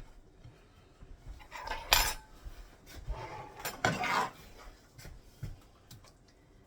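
A serving utensil scraping and clinking against the skillet and pie tin as thick chicken pot pie filling is scooped into the crust. There is a sharp clink about two seconds in and a longer scrape a second later.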